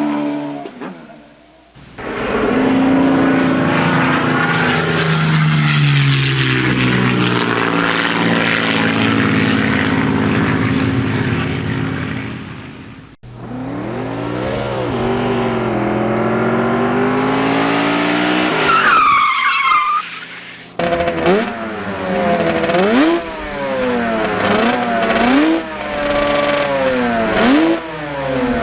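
A run of car sound-effect clips: a car engine running with its pitch stepping down, then an engine revving up and down with a tyre squeal about two-thirds through, then a string of quick repeated revs.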